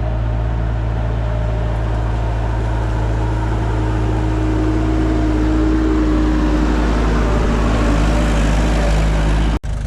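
Vehicle engine running steadily, with a low drone and a fainter pitched hum that drifts slightly in pitch; the sound drops out for an instant near the end.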